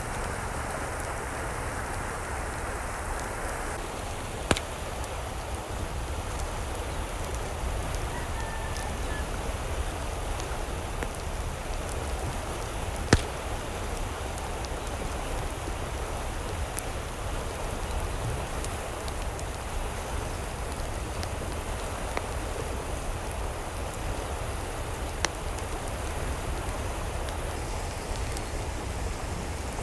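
Steady water noise, like rain or running water, with a low rumble beneath and a few sharp single clicks, the loudest about halfway through.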